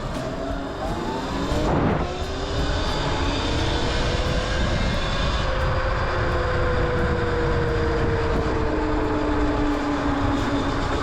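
Electric dirt bike's motor whining while riding. The whine rises as it accelerates over the first two seconds, then holds and slowly falls in pitch, with a steady rumble of wind on the microphone underneath.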